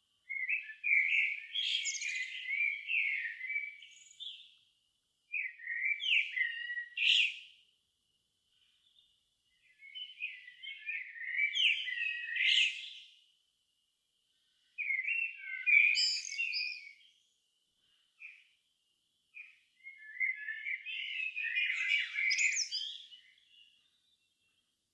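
A songbird singing five separate warbled phrases, each two to four seconds long, with short pauses between them; several phrases end in higher, thinner notes.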